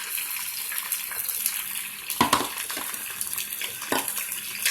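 Marinated chicken pieces sizzling in hot oil in a wok, a steady high hiss, with a few knocks of a spatula against the wok, the loudest about two seconds in.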